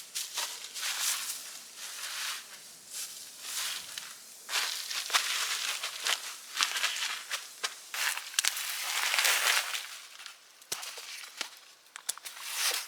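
Close, irregular rustling and crunching in uneven stretches, with scattered sharp clicks and snaps.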